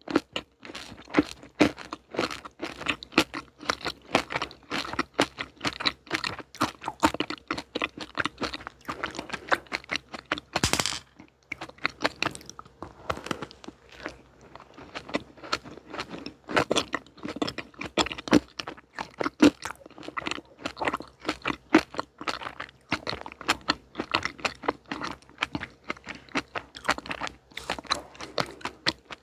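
Close-miked chewing and crunching of crisp chocolate sweets, with a rapid, irregular run of crunches and a brief louder crackle about eleven seconds in.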